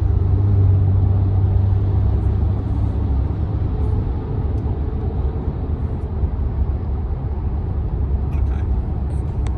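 Cabin noise of a Kia Stinger twin-turbo cruising: a steady low hum of road and engine noise, a little stronger in the first few seconds.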